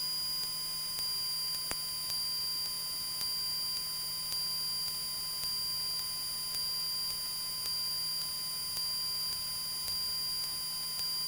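Steady electrical hum and thin high whine on the aircraft's intercom audio feed, with no engine noise coming through, and one faint click about a second and a half in.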